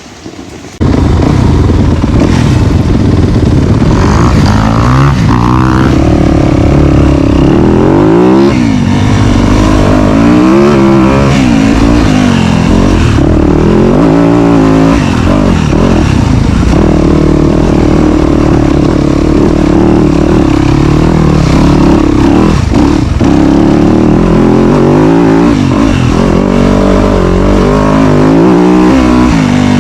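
Dirt bike engine being ridden hard, very loud and close, its pitch rising and falling every second or two as the throttle is worked and gears change. It comes in abruptly about a second in.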